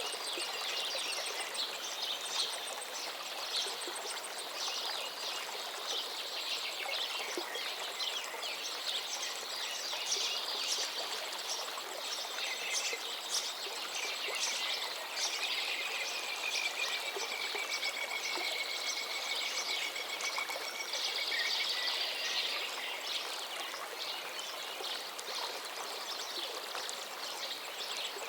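River water flowing steadily, with several birds chirping and singing over it. One long drawn-out high note runs for about five seconds around the middle.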